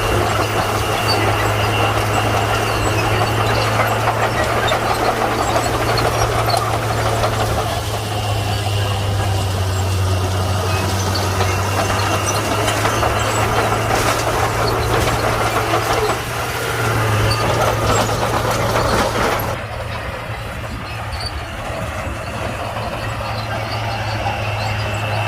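Komatsu D41P crawler bulldozer's diesel engine running steadily under load, with dense mechanical noise over a low engine hum. Near the end the higher noise falls away and it eases off.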